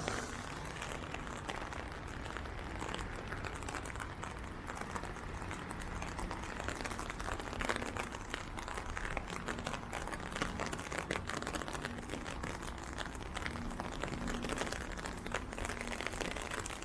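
Rain hitting an umbrella held overhead: a dense, steady crackle of small drop ticks on the fabric, with a faint low hum underneath.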